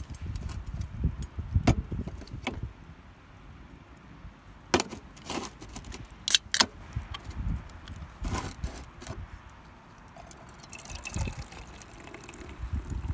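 Handling sounds: a series of sharp clicks and clinks, two of the loudest coming close together about six and a half seconds in, with low thuds and rumbling between them.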